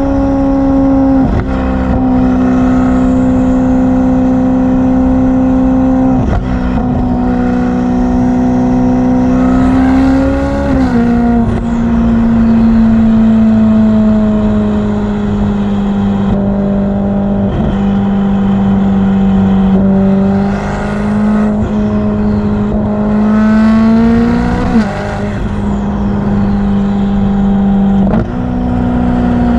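Ferrari F8's twin-turbo V8 running through a Novitec exhaust at a fairly steady engine speed under way. The pitch steps several times: it rises briefly and then drops at about ten seconds and again near twenty-five seconds, like gear changes.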